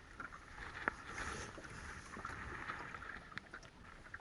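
Wind rumbling on the microphone under a steady outdoor hiss, with a single sharp click about a second in.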